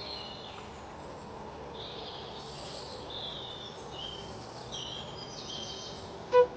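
Several wild birds chirping and twittering in short high phrases over a steady background hiss. A single loud, pitched call comes in near the end.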